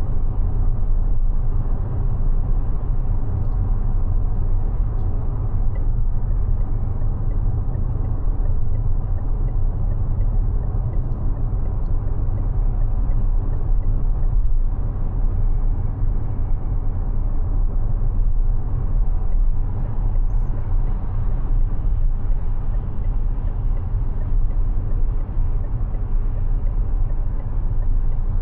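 Steady low road and tyre rumble of a Mazda 6e electric sedan driving at a constant pace, with no engine note.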